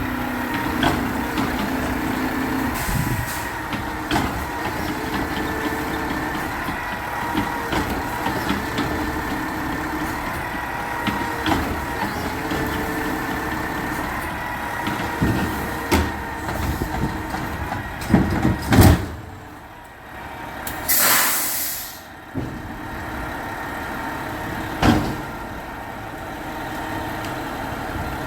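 Garbage truck running, with a few clanks and thumps, then a short, loud hiss of air brakes about three-quarters of the way through before the engine carries on.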